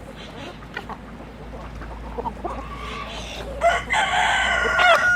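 A rooster crowing once, a long pitched call starting about three and a half seconds in and the loudest sound here, with shorter chicken calls and clucks before it.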